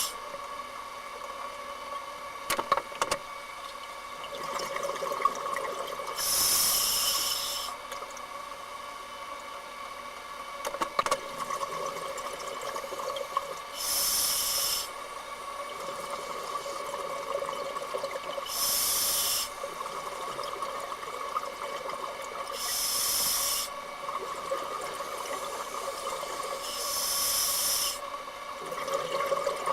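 Scuba diver's exhaled bubbles rushing out of the regulator underwater in hissing bursts of about a second, roughly every four to five seconds, over a steady hum.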